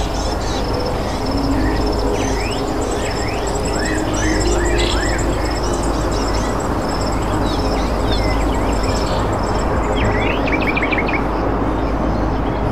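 Birds chirping and calling: a repeated high, thin note runs through, with many quick sweeping chirps and a cluster of rapid chirps near the end, over a steady background rush.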